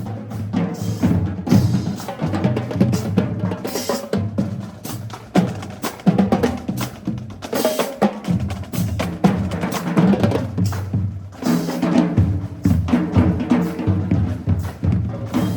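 Marching band drumline playing a cadence: a fast run of snare drum strikes over bass drum hits.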